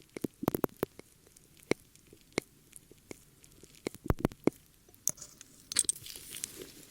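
ASMR ear-cleaning sounds close on the microphone: irregular sharp clicks and scrapes, a few every second, with a short rustling hiss a little before the end.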